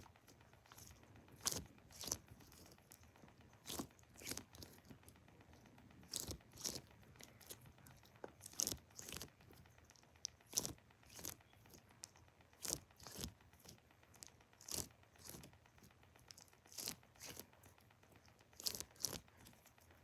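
A Vaseline-filled cheese squishy toy being squeezed and pressed in the hands: faint, irregular short crinkly squishes, roughly one or two a second with pauses between.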